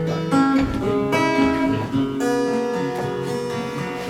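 Acoustic guitar strumming chords in an instrumental passage of a live song, with a new chord struck about once a second.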